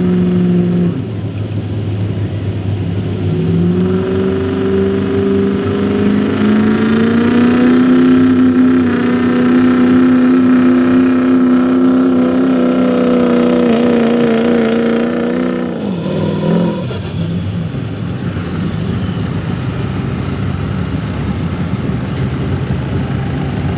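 Street gas class pickup truck's gasoline engine pulling a weighted sled at high revs. The engine note climbs over a few seconds, holds high for about eight seconds, then drops sharply about 16 seconds in as the throttle comes off, and carries on at a lower, steady pitch with a few clicks just after the drop.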